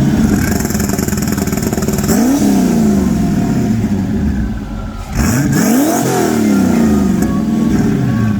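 Turbocharged Lincoln Town Car's engine revving hard, its pitch climbing and then falling back twice, about two seconds in and again, more steeply, about five seconds in.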